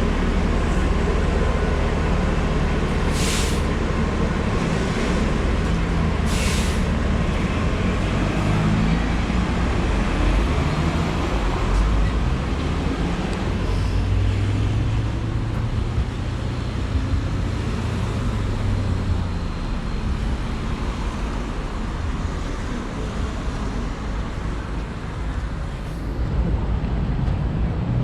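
Steady low vehicle rumble with road noise, with two brief hisses about three and six seconds in.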